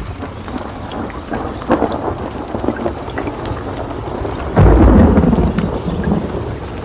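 Steady rain falling, with a sharp crack just under two seconds in and then a loud thunderclap about four and a half seconds in, rumbling low and dying away over a couple of seconds.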